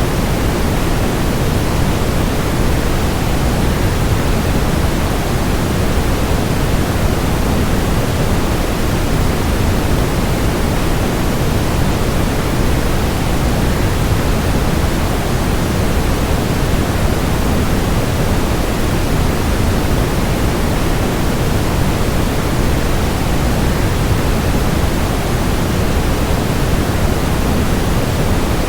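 Waterfall rushing, blended with white noise: a steady, even hiss, heaviest in the low end, that does not change.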